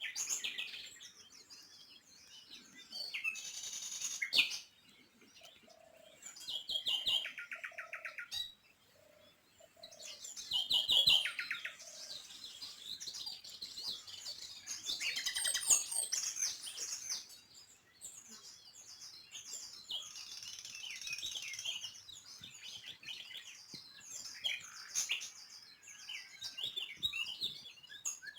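Small songbirds chirping and twittering, several birds calling over one another, with quick rapid trills every few seconds.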